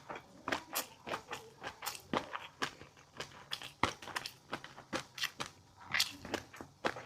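Close-miked eating of fish roe and crunchy seafood: an irregular run of crisp crunches and small pops, several a second.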